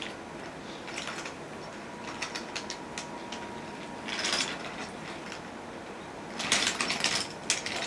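Toy trains and track pieces clicking and clattering on a wooden train set, with scattered light clicks and a denser burst of rattling clatter near the end.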